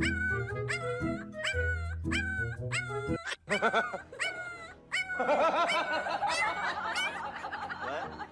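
Music with a steady beat, then a dog vocalising in wavering, whining howls over the last few seconds.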